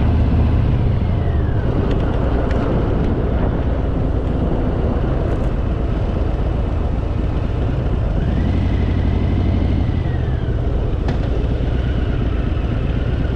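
Harley-Davidson Fat Boy's V-twin engine running steadily on the move, with a constant low engine note. About eight seconds in, a faint high tone rises, holds for a couple of seconds and falls away.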